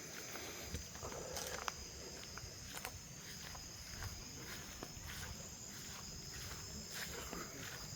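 Crickets and other night insects chirring steadily in a high pitch, with irregular soft footsteps on the ground.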